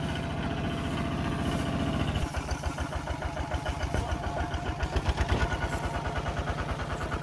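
Tractor engine running; about two seconds in, its steady note changes to a slower, separately pulsing beat that swells and dips in loudness.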